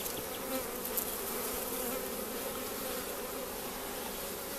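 A swarm of honey bees buzzing steadily around an open hive, a continuous hum of many wings, stirred up by smoke.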